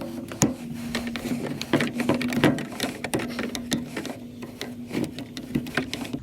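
Hand tools clicking and scraping on metal while prying the crimped tabs of a scrap radiator, many quick sharp taps, over a steady low hum.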